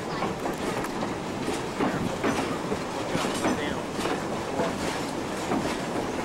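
Steam excursion train rolling on the rails: a steady rumble with irregular clanking and clicking from the wheels and cars.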